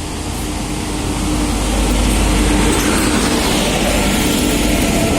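Passenger express train hauled by a WAP-5 electric locomotive running in, a steady rumble with a faint hum that swells over the first two seconds and then holds.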